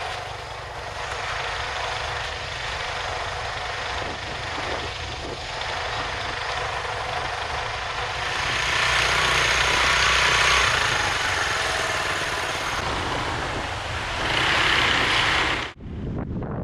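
Restored SYM Wolf 125 motorcycle engine running, louder from about halfway through and again briefly near the end, then cutting off abruptly just before the end.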